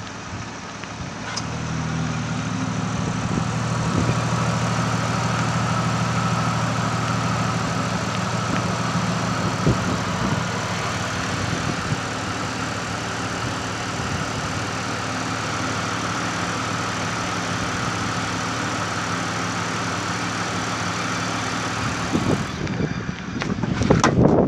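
2012 Mazda CX-9's 3.7-litre V6 petrol engine idling steadily with the bonnet open. Knocks and rustling near the end.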